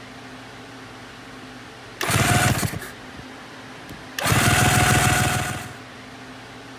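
The engine of a 1972 Suzuki GT750 'Kettle' two-stroke triple in two loud bursts of about one and one and a half seconds, each a steady whine over fast pulsing, against a steady low hum.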